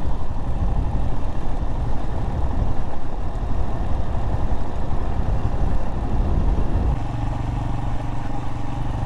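Royal Enfield Himalayan motorcycle engine running while riding downhill, with road and wind noise over it. About seven seconds in, the engine settles into a steadier low hum.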